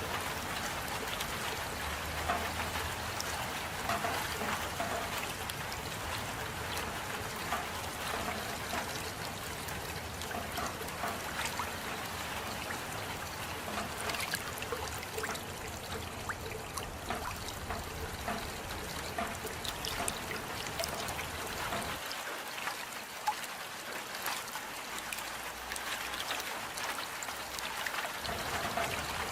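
Steady rain, a dense even hiss with many separate drops ticking through it. The low rumble underneath drops away for a few seconds about three-quarters of the way through.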